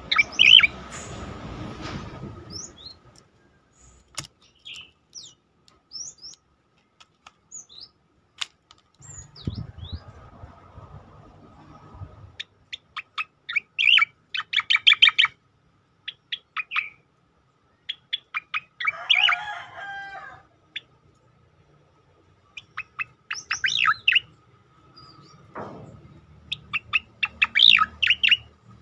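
Striated grassbird (cicakoreng) singing its rapid-fire song: several bursts of fast, sharp, high notes with pauses between them.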